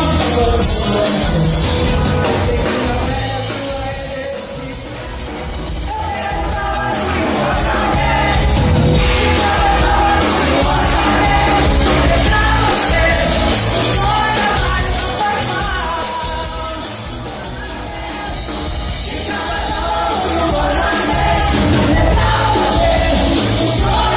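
A band playing a loud rock-style song with singing over a steady drum beat and bass; the music eases down briefly twice and builds back up.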